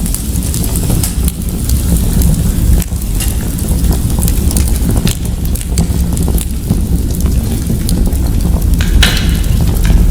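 Fireplace fire crackling steadily, with scattered sharp pops over a low rumble. A louder crackle comes about nine seconds in.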